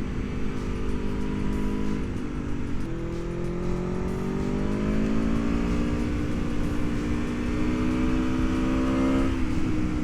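Aprilia Tuono V4 1100 RR's V4 engine running under way over wind rush. Its note eases down, steps up about three seconds in, climbs steadily as the bike accelerates, then drops back about nine seconds in.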